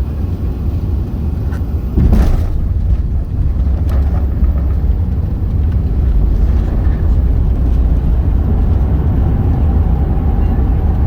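Airbus A380 landing heard from inside the cabin: a steady low rumble, with a sharp thump about two seconds in as the wheels touch down, then a louder rumble as the airliner rolls out on the runway.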